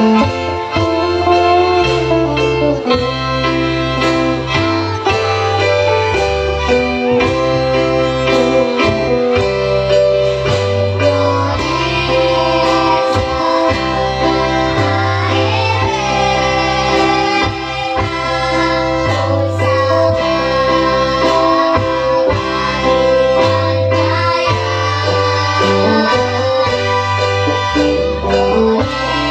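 Two children singing a duet over instrumental backing music with a steady, stepping bass line.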